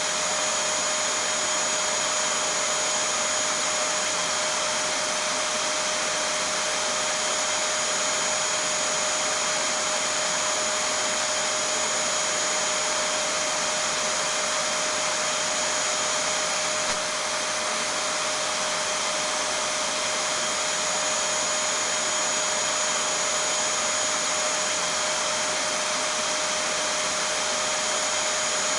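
Vacuum cleaner running steadily: an even rush of air with a constant whine in several pitches, and one brief click a little past halfway.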